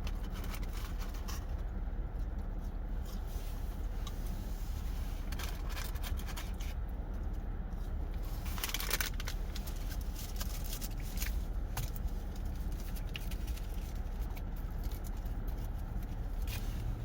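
Paper food packaging rustling and crinkling, with scattered sharp clicks and a louder crinkle about nine seconds in, over a steady low hum.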